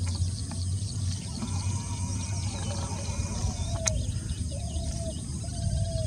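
Pond-side ambience of birds calling: a short mid-pitched call repeats several times in the second half, over faint high chirping and a low steady hum, with one sharp click about four seconds in.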